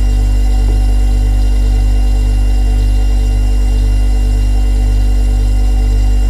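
Refrigerator compressor running with a steady, loud hum made of several fixed tones, with a slow throb in the low hum about twice a second.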